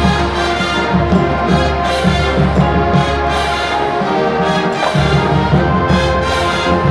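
High school marching band playing: full brass chords over a pulsing low brass and drum line, with repeated percussion hits that include cymbal crashes.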